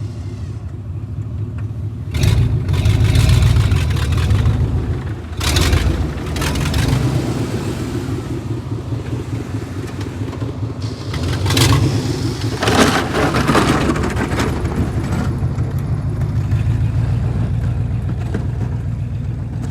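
A vehicle engine running steadily and revved up in several surges: about two seconds in, again around six seconds, and for a longer stretch a little past halfway.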